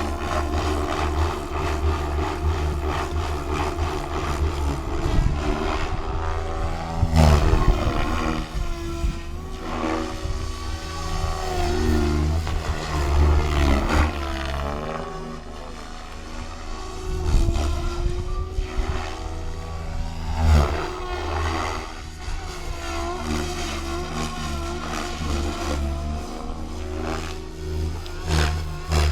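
Electric RC helicopter (SAB Goblin 630) in flight: its rotor blades and motor whine, the pitch rising and falling again and again as it manoeuvres.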